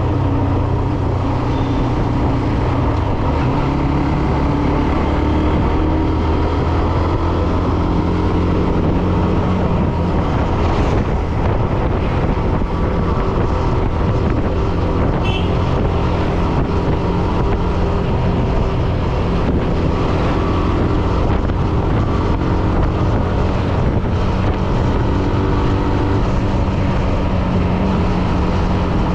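Hero Xtreme 125R motorcycle's single-cylinder engine running steadily on the move, its pitch shifting slightly now and then, with wind noise on the microphone.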